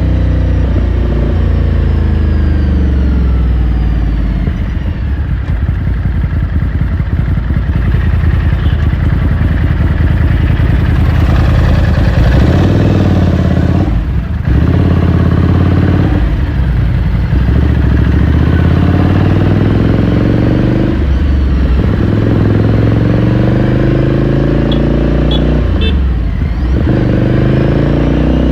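2018 Ducati Scrambler Sixty2's air-cooled two-cylinder engine, heard on board while riding. The revs fall for the first few seconds, then it accelerates, rising in pitch and shifting up through the gears with short dips between pulls.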